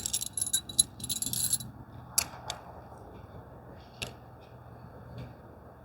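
A burst of rattling and clicking lasting about a second and a half, then a few single sharp clicks, from small hard pieces of tent gear being handled during setup.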